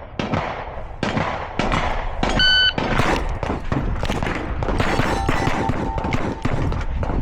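A shot timer's electronic start beep about two and a half seconds in, followed by a rapid string of rimfire pistol shots, sharp cracks a fraction of a second apart; a few scattered shots come before the beep.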